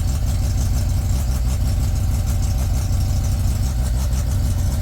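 Mazda RX-7's turbocharged rotary engine idling steadily at a high idle of about 2,000 RPM on its first startup after an engine install. Exhaust leaks from the two open EGT probe ports in the downpipe, adding to the sound.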